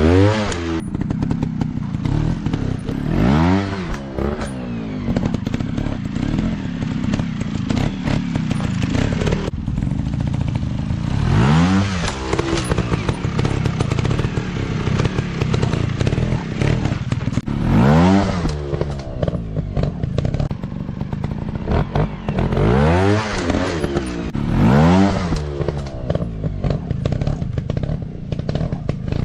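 Off-road dirt bike engines running, with the throttle opened and closed several times so the revs climb sharply and drop back, between stretches of lower running.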